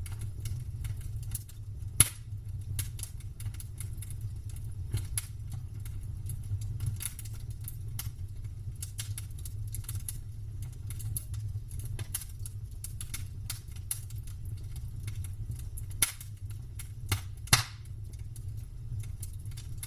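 Wood campfire crackling, with irregular snaps and pops over a steady low rumble. The loudest pops come about two seconds in and in a cluster near the end.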